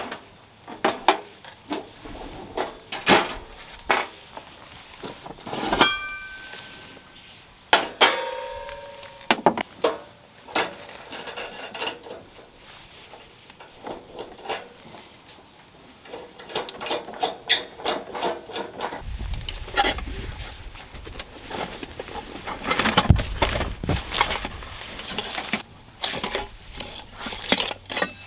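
Camp cookware and utensils being handled: a run of clatters and knocks, with a few short metallic rings about six and eight seconds in. A low rumble joins the clatter in the second half.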